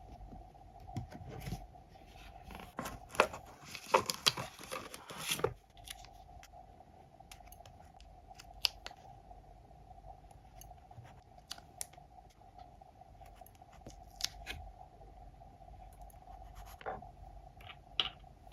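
Scissors cutting paper: a quick run of snips and paper rustle about three to five seconds in, then scattered light taps and clicks of paper and tools, over a faint steady hum.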